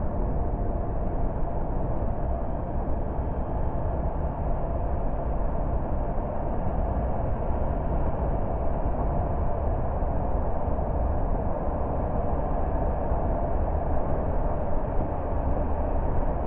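Steady road noise of a car driving along, tyres and engine running at an even speed.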